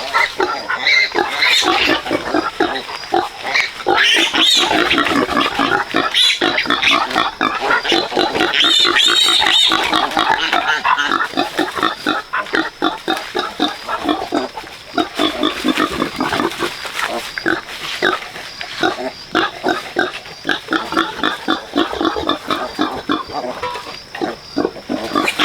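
A sow and her newborn piglets grunting and squealing in a continuous, rapid jumble of calls. Shriller squeals rise above the rest about four seconds in and again around eight to ten seconds in.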